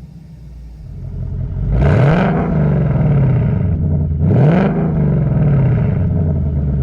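2019 Mustang GT's 5.0 L V8, with a Pypes H-pipe exhaust and the active exhaust in normal mode, revved twice from idle as heard inside the cabin: each rev climbs quickly and drops back to a steady idle.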